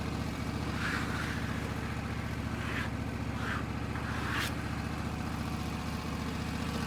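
Wood-Mizer LT15 Wide sawmill's engine running steadily at a low speed between cuts, with a few brief hissing sounds over it.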